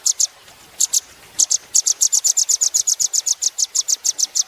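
Velvet-fronted nuthatch (rambatan paruh merah) calling: a fast run of sharp, high chip notes, about eight a second. The run breaks off shortly after the start, gives a couple of notes near one second in, and resumes.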